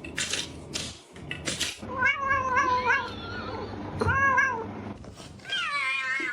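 Domestic cat meowing three times in drawn-out calls with wavering pitch, the last one sliding downward. A few short, noisy scuffs come before the first call.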